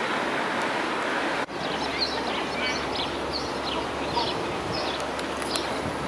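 Steady outdoor background noise, broken by a sudden cut about one and a half seconds in. After the cut, birds chirp repeatedly in short, high calls over the background.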